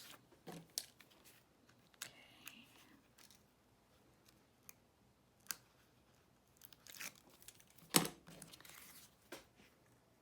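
Paper crafting sounds: scattered light rustles, taps and scrapes of cardstock and patterned paper pieces being handled and pressed down onto double-sided tape, with one sharp tap about eight seconds in.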